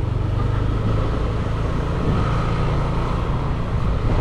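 Motorbike engine running at a steady pace while riding, heard from on the bike.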